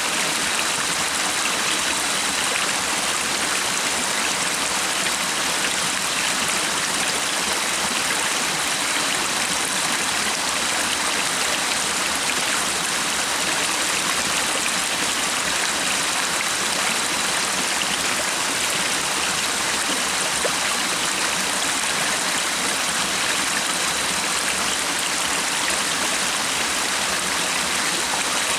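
Running water of a stream flowing steadily, an even, unbroken rushing hiss.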